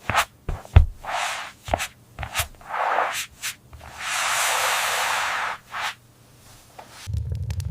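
Scraping and rubbing strokes of handwork with a few sharp knocks, a heavy thump just under a second in, and one longer scraping stroke of about a second and a half starting about four seconds in.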